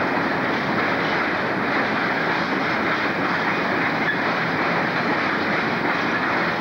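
Steady rushing noise of a diesel-hauled freight train moving over the tracks, with no distinct engine note standing out.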